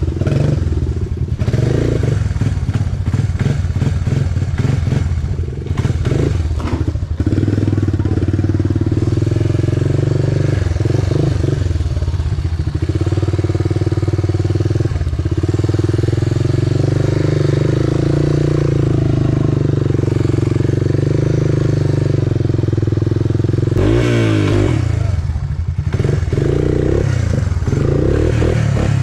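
Small single-cylinder off-road engine idling steadily, with a short rev about 24 seconds in.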